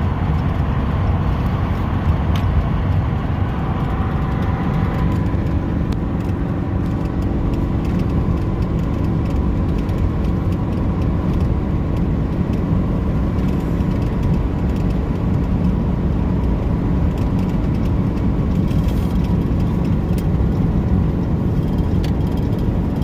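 2019 Ram 5500's 6.7 L Cummins turbo-diesel pulling up a grade under throttle, with steady engine and road noise heard from inside the cab. About five seconds in, some of the higher-pitched sound eases off.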